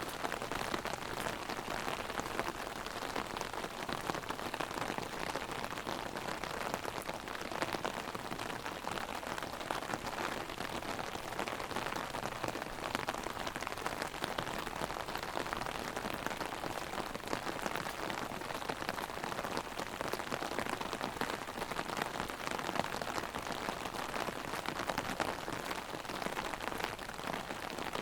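Heavy rain pattering on an umbrella overhead, a dense, steady patter of drops hitting the canopy.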